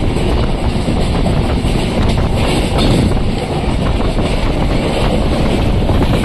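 Passenger train running along the track, heard at an open window: a steady rumble of the carriage on the rails with wind buffeting the microphone.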